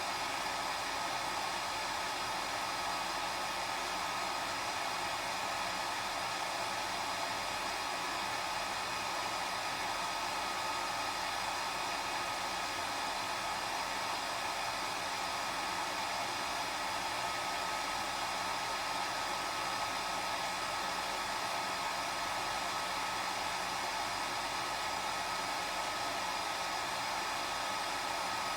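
Hair dryer running steadily: an even airy rush with a faint steady whine from the motor.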